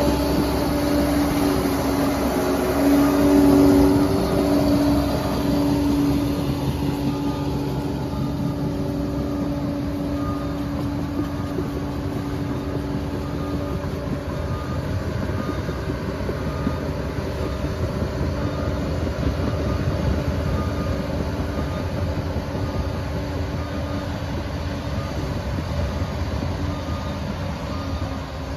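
Liebherr 746 crawler dozer at work: its diesel engine runs steadily under a dense low rumble from the machine and its tracks. The engine note is strongest over the first few seconds, then settles. A faint short high tone repeats at an even pace through the second half.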